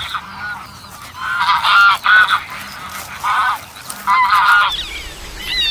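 Waterfowl honking: several bursts of repeated, nasal calls about a second apart, with a few higher, falling calls near the end.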